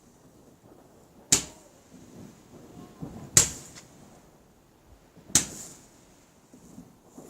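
Fireworks going off: three sharp bangs about two seconds apart, each with a short echoing tail.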